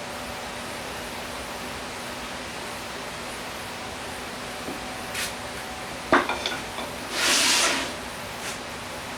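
Steady background hiss, broken about six seconds in by a sharp clack with a brief ringing, then a short hiss lasting under a second.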